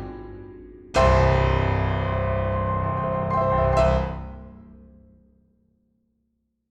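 Background piano music. A low, full chord is struck about a second in and rings on, a couple of higher notes follow, and then it fades away to silence.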